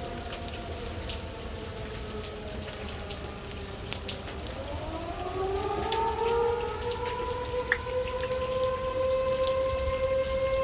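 Outdoor tornado warning siren wailing: its tone slides down at first, then about four and a half seconds in winds up again, rising in pitch and settling into a steady wail. Rain patters with scattered drops ticking close by.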